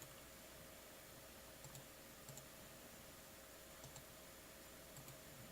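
Near silence with a handful of faint double clicks from computer input, as if a mouse is being clicked.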